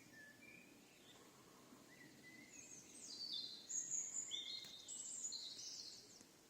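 Birdsong: a few faint short calls, then from about three seconds in a louder burst of quick, high, downward-sliding notes that stops shortly before the end.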